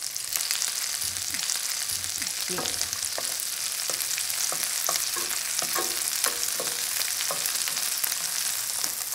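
Melted butter sizzling and crackling steadily in a hot skillet as rice cake and cheese skewers fry in it.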